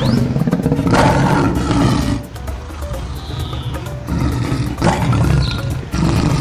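Lion roars in a cartoon, a long one at the start and more near the end, over background music.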